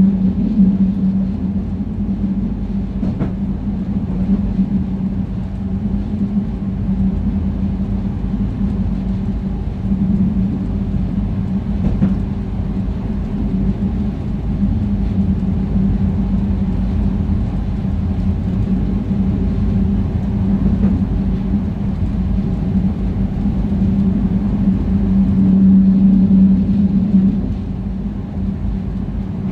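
Passenger train running steadily along the track, heard from the cab: a constant rumble with a steady hum and a couple of short clicks.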